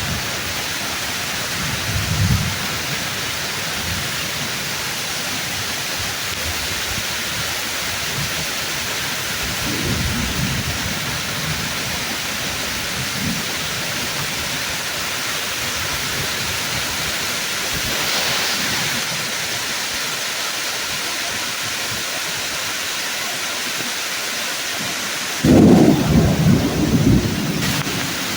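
Steady heavy rain falling through trees, with a few soft rolls of thunder. A sudden loud crash of thunder breaks in near the end and rumbles for a couple of seconds.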